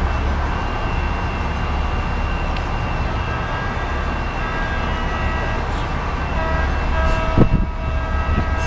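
Train running with a steady low rumble and several faint steady whining tones, which grow stronger in the second half. A few sharp knocks come near the end.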